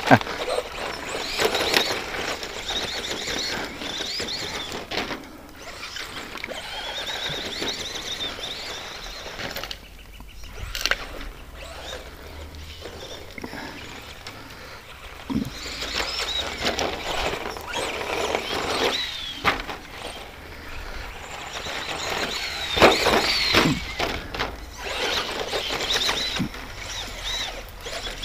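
ECX Circuit RC stadium truck's brushed electric motor and gears whining, the pitch rising and falling with the throttle over and over, with a few thumps as the truck lands or hits bumps on the rough track.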